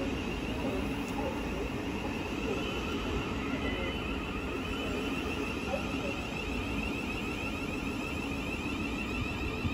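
Thameslink Class 700 electric multiple units at the platform: a steady rumble with a high electric whine.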